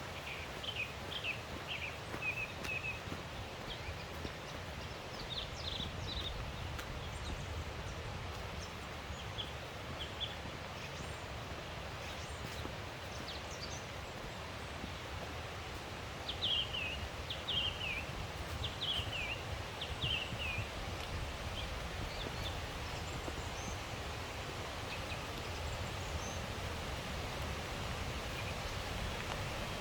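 Songbird chirping in a few short runs of quick, falling notes, over a steady rushing forest ambience.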